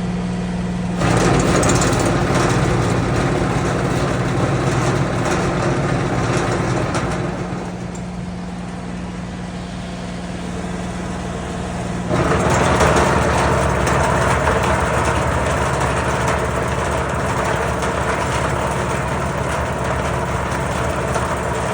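New Holland tractor engine running while its power take-off is tested. A steady engine note is joined about a second in by a louder whir from the PTO-driven drive, which eases off around seven and a half seconds and cuts back in sharply around twelve seconds.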